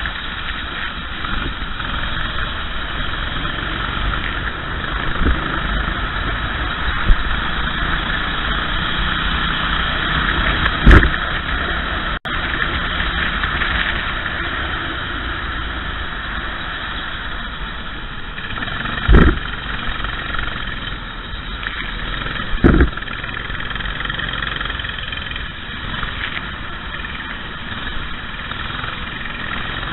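Racing kart engine running steadily while the kart is driven, with three short loud thumps about eleven, nineteen and twenty-three seconds in.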